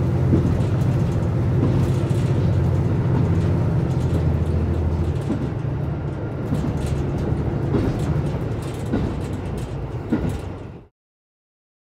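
Running noise heard inside a diesel railcar: a steady low engine drone that eases off about halfway through, with a few clacks of the wheels over rail joints. The sound cuts off suddenly near the end.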